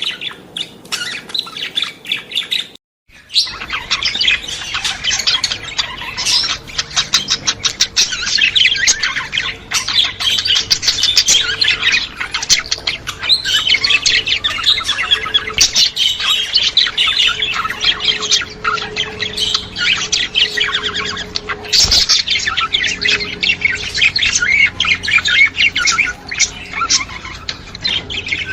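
Flock of budgerigars chattering, a dense stream of fast chirps, squawks and warbles with a brief break about three seconds in.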